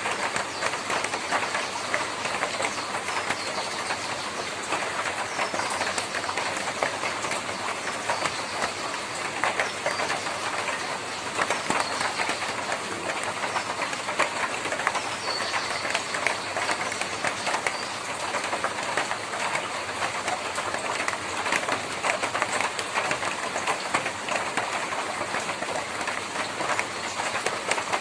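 Steady rain drumming on a tin roof: a dense, even patter of countless small drop impacts on the metal sheeting.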